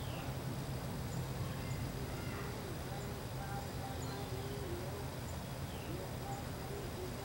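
Outdoor backyard ambience: a steady low hum with faint bird chirps and short falling calls now and then.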